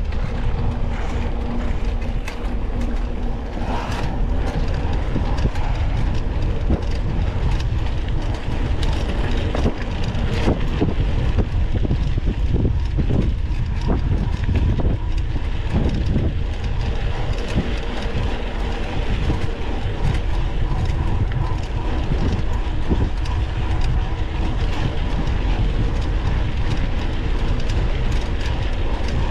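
Mountain bike riding over a rough dirt trail, heard from a camera mounted on the bike or rider: a steady low rumble with constant rattling and many quick knocks as the bike runs over bumps.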